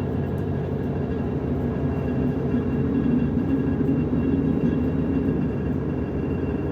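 Running noise inside a DB class 425 electric multiple unit under way: a steady rumble of wheels on track with faint steady high tones above it, swelling a little about halfway through.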